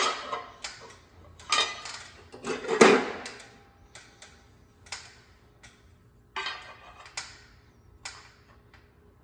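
Irregular clanks and clinks of steel plate and tooling being handled and set up at a small bench press brake, the loudest about three seconds in, then fewer and lighter knocks.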